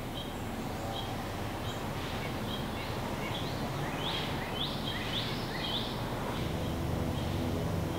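Bird chirping over a steady outdoor hiss: a string of short, high, upward-sweeping notes, most of them in the middle stretch. A low steady hum sets in near the end.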